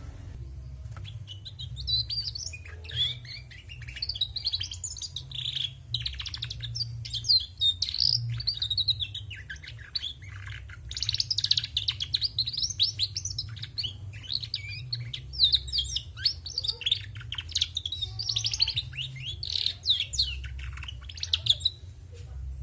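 Female domestic canary twittering (ngriwik) in a long, rapid run of chirps and trills that starts about a second in and stops shortly before the end. It is a hen canary, not a male. There is a steady low rumble underneath.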